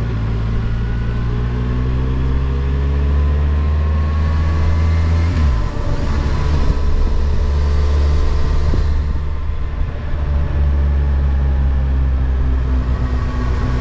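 Kawasaki Versys motorcycle engine running steadily under way, its note briefly breaking and shifting about five and a half seconds in before settling again, with road and wind rush underneath.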